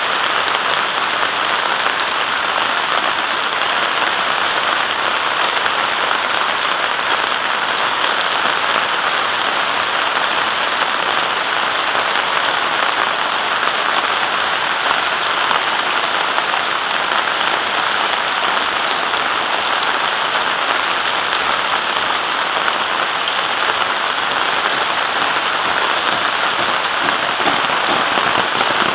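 Rain falling steadily: a dense, even hiss of drops that neither builds nor eases.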